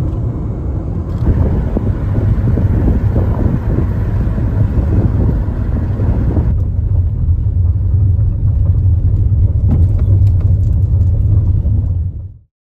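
Steady low rumble of a car driving, heard from inside, with a brighter rushing layer over it for the first several seconds. It cuts off suddenly near the end.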